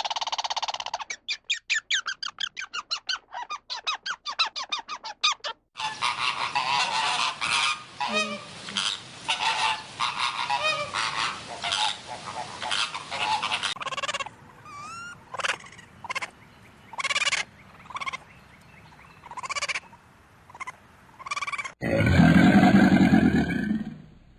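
A run of loud, repeated bird calls: first a fast series, then a dense chorus, then sparser calls with some upward-sliding notes. Near the end a loud, low roar cuts in.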